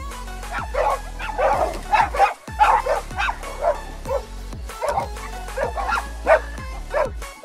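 A dog barking in a rapid, continuous string of short barks, about three a second, over background music.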